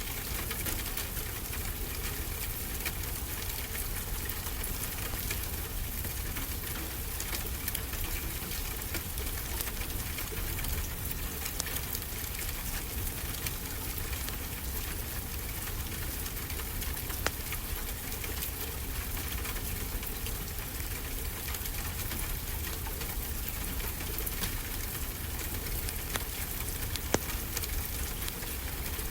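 Fireplace crackling, with a few sharp pops, over a steady low wash of ocean surf.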